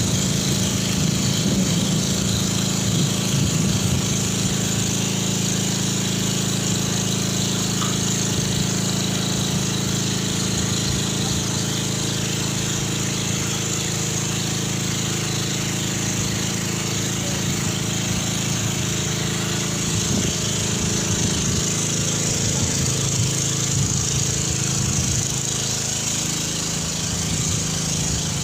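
An engine running steadily: a constant low drone with a hiss above it, unchanging throughout.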